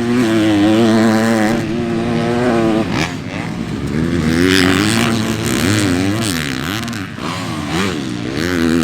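Motocross bike engines racing on track, revving hard with pitch rising and falling again and again as riders work the throttle, with a brief drop around three seconds in and again around seven seconds in.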